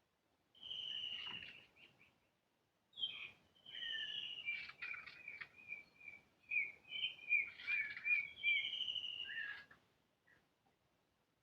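Bird calls: a run of clear whistled notes mixed with chattering clicks. A short bout comes first, then a longer, busier one from about three seconds in.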